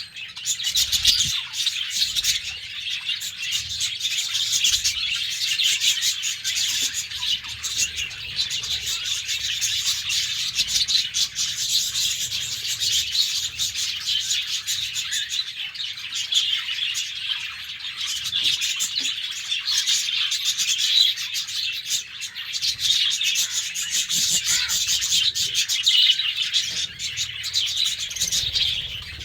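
A caged flock of budgerigars chattering and chirping continuously, many birds at once in a dense, steady twitter.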